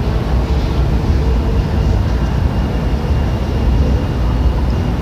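Steady low rumbling noise with a few faint steady tones above it.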